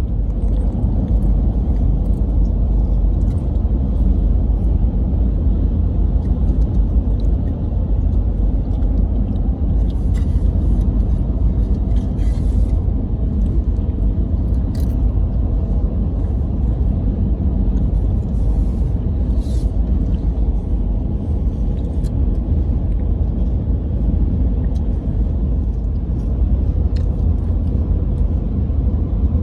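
Steady low rumble, with a few faint clicks and rustles in the middle stretch.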